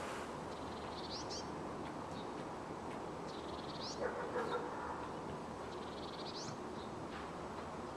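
A small bird calls every few seconds in short, high, rising trills over a steady distant city hum. A brief, lower, louder call comes about halfway through.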